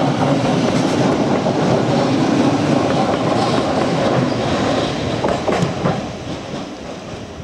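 NS Sprinter electric multiple unit running past at close range, its wheels rattling and clacking over the rail joints. A few sharp clacks come about five seconds in, and then the sound fades as the train moves away.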